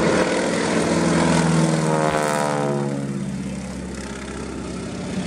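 Boeing Stearman biplane's radial engine and propeller flying past, the engine note dropping steeply in pitch about two seconds in as it passes, then fading as it draws away.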